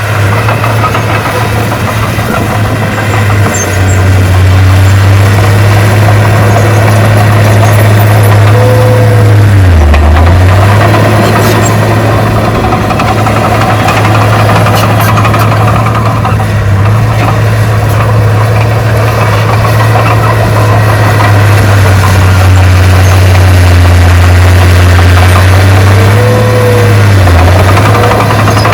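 Heavy diesel engine of earthmoving equipment running steadily and loud, its note dipping briefly twice, about ten seconds in and near the end.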